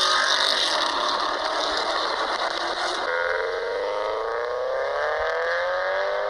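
Car engine and exhaust accelerating, the pitch climbing steadily. About three seconds in the sound changes abruptly and a second rising run begins.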